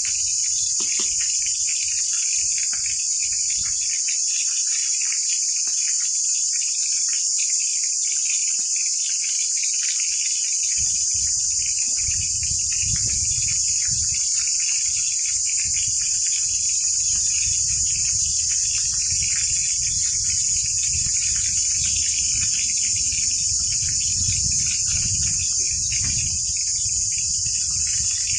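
Loud, steady chorus of insects, a continuous high-pitched buzz with no breaks. A low rumble joins in about eleven seconds in.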